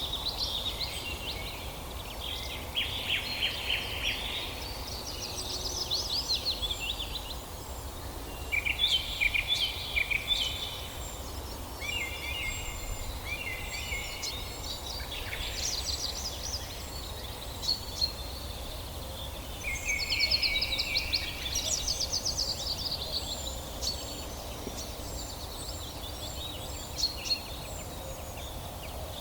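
Several songbirds singing, overlapping phrases of rapid trills and chirps that come and go every few seconds, over a steady low background hiss.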